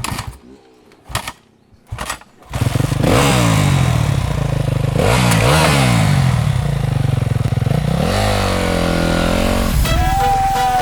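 Motorcycle engine starting and being revved: a few sharp clicks, then the engine catches about two and a half seconds in and is blipped up and down several times, held at high revs for over a second near the end before dropping off. A held tone comes in at the very end.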